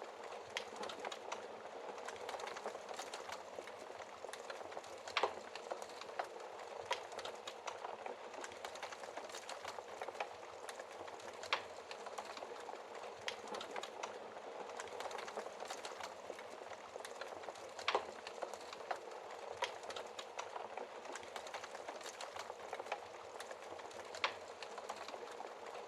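Wood fire burning in a fireplace: a steady crackle full of small snaps, with four louder pops spaced about six seconds apart.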